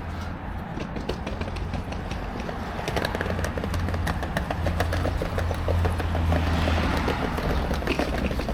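Vehicle engine idling with a steady low hum, joined from about three seconds in by a rapid run of clicks and clatter.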